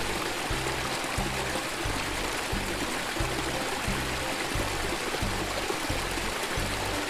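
Background music with a steady repeating bass beat, over muddy water trickling and flowing along a small channel dug in sand.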